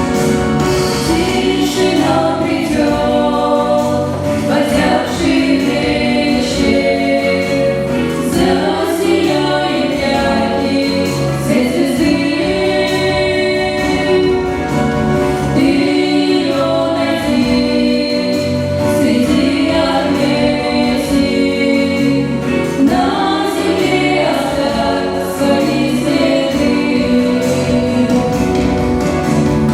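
A small group of voices singing a song together, with instrumental accompaniment.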